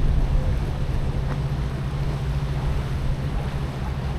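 Steady low rumble of wind buffeting the microphone, with a steady low hum running underneath.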